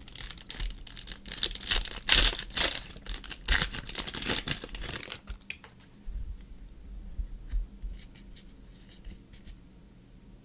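Trading-card packaging and cards being handled by hand: tearing and crinkling, busiest for the first five seconds or so, then a few light clicks.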